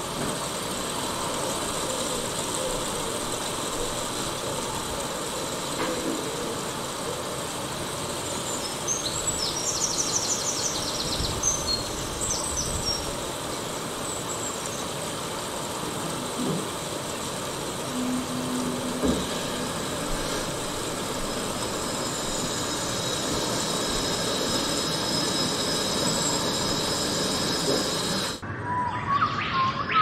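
Birds chirping, a few short high chirps about a third of the way in, over a steady hiss of background noise. Near the end the hiss cuts off suddenly and sweeping whistled calls rise and fall.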